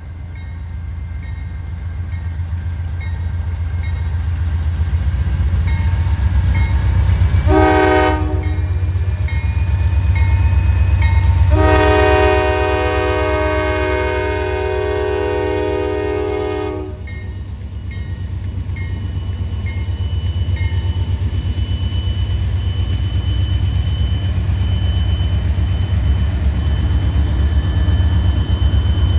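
Freight locomotive's air horn sounding a short blast about eight seconds in, then a long blast of about five seconds, over the steady heavy rumble of the diesel locomotive and freight cars rolling past. A grade-crossing bell dings evenly through the first two-thirds.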